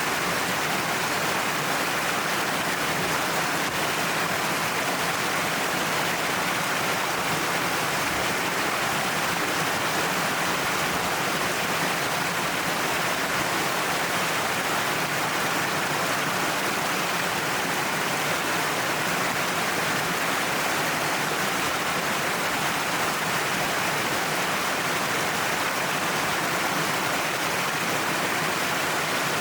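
Waterfall pouring down a cliff face, a steady rushing of falling water that stays even throughout.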